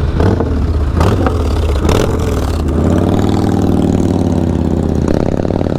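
Motorcycle engines running at low revs, with a chopper's engine coming in louder about five seconds in.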